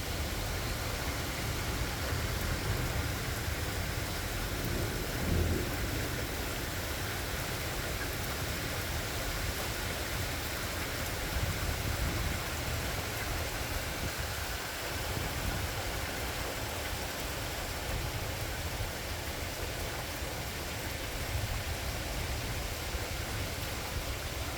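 Steady rain hiss with the low rumble of distant thunder underneath, swelling briefly about five seconds in.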